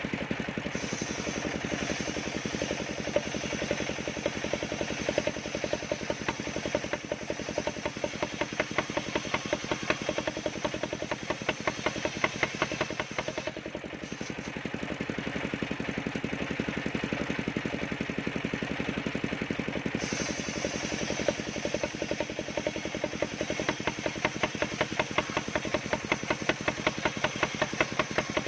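Engine of a portable circular sawmill running steadily with a fast, even firing beat, dipping slightly in level about halfway through.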